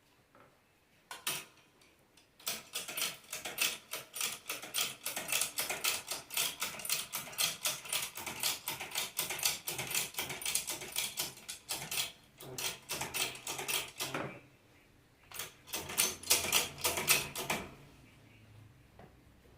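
Rapid sharp metallic clicks or taps, about five a second, from hand-tool work on an alternator rotor. They come in a long run, stop, and then come in a second shorter run.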